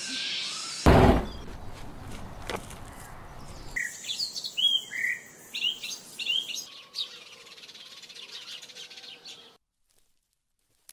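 Small birds chirping in short rising and falling calls, after a loud low thump about a second in and a low rumble. The sound cuts to silence near the end.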